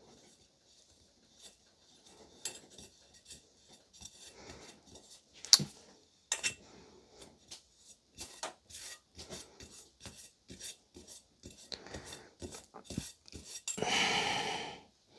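Cake-decorating utensils clicking, tapping and scraping against a bowl and the work surface, with a sharp knock about five and a half seconds in and a louder scrape lasting about a second near the end.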